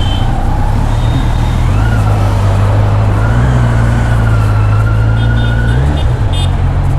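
Motorcycle engine running while riding, under steady road and wind noise; the engine note rises about two seconds in and drops back near six seconds.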